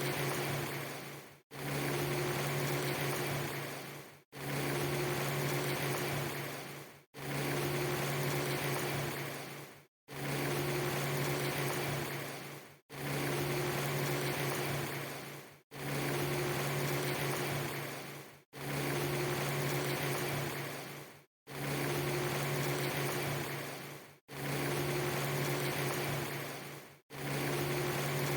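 Rain ambience loop: a steady hiss with a strong low hum under it, repeated about every three seconds, each repeat fading out and breaking off to a moment of silence before it starts again.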